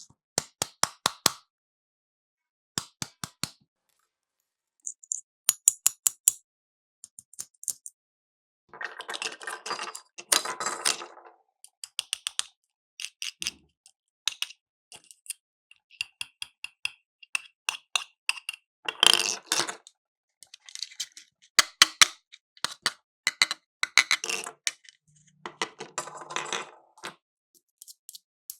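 Small plastic toy cash register pieces and toy coins being handled: quick runs of sharp clicks, taps and clinks with brief pauses, some rustling, and a run of short high beeps about midway.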